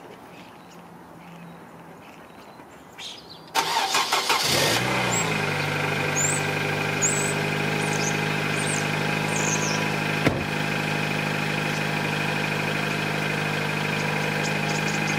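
2009 Nissan Versa's four-cylinder engine cranked by the starter, catching after about a second and then idling steadily. A few short bird chirps sound over the idle soon after it catches, and there is one sharp click about ten seconds in.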